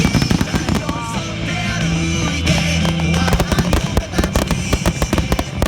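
Fireworks bursting and crackling in quick succession over loud show music. The crackles grow denser in the second half.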